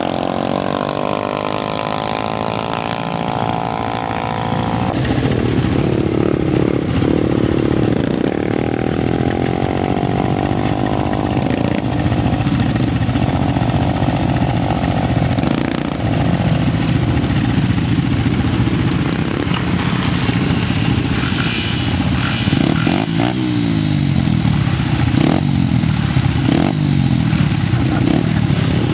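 Dirt bike engines running and revving up and down, the pitch rising and falling as the throttle opens and closes, with more than one engine heard at once near the end.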